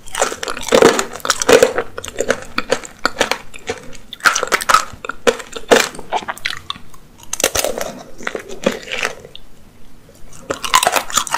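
Close-miked chewing of candied apricot tanghulu: the hard sugar shell crackles and crunches between the teeth along with the soft fruit, in irregular bursts. After a short lull near the end comes a fresh crunching bite.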